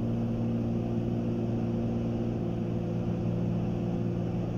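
Steady drone of a Cessna 310Q's two piston engines and propellers in cruise, heard inside the cabin, with a low, even hum that does not change.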